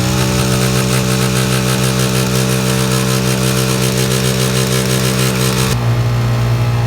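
Motorcycle engine, freshly restarted after being pushed through water, held at raised revs and running steadily, then dropping back to a lower idle about six seconds in.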